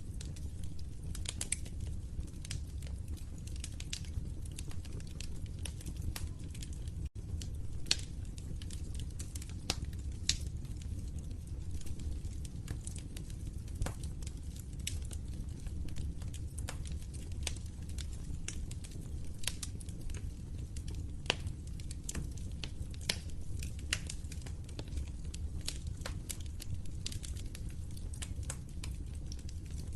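Wood fire crackling in a fireplace: irregular sharp pops and snaps over a steady low rumble of burning. The sound cuts out for an instant about seven seconds in.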